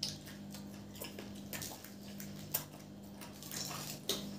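Close-up eating sounds: people biting and chewing samosas and green chillies, with scattered crunches and wet mouth clicks over a steady low hum.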